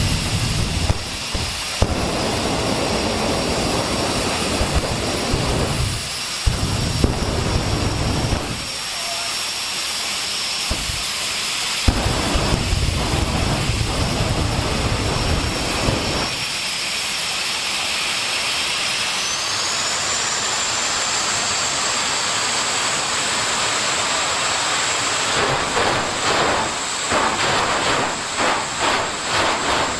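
Jet drag car's turbine engine running with a high steady whine over a rushing exhaust, the whine climbing in pitch about twenty seconds in as the engine spools up. Low rumbles come and go in the first half, and near the end the sound starts to pulse.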